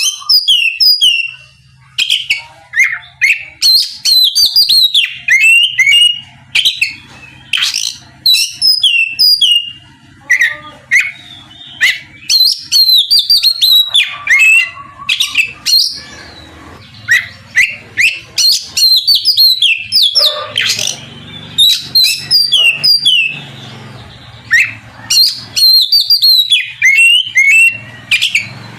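Oriental magpie-robin (kacer) in full song: rapid, varied clear whistles, sharp notes gliding up and down, and short trills. They come in loud phrases a second or two long, broken by brief pauses.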